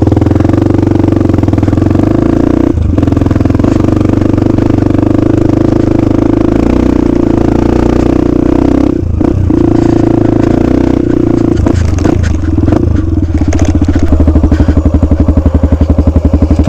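KTM 85 two-stroke dirt bike engine running under the rider, with brief drops in engine note about three seconds in and again around nine seconds. Near the end it settles into a steady, evenly pulsing low-rev beat.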